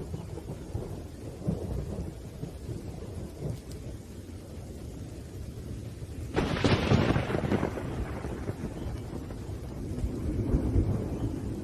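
Thunderstorm: thunder rumbling low over steady rain, with a sudden loud clap about six seconds in that rolls on for a second or two, and another swell of rumbling near the end.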